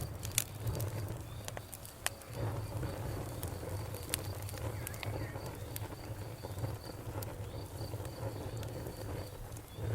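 Campfire burning, with irregular sharp pops and snaps over a steady low rumble. A faint, evenly repeating high-pitched pulse runs behind it.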